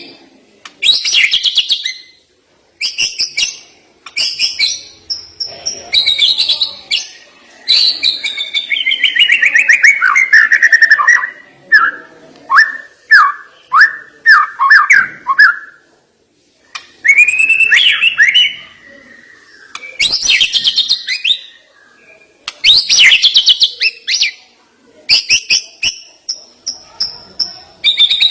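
White-rumped shama (murai batu) singing a varied, loud song in separate phrases: sharp high bursts, a long run of notes falling in pitch near the middle, then a string of quick downward-slurred whistles, with short pauses between phrases.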